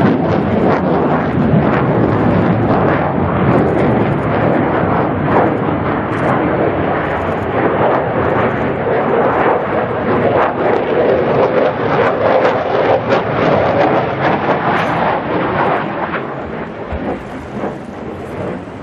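F-16 Fighting Falcon's jet engine roaring overhead in a dense, crackling rumble that fades in the last few seconds as the jet moves away.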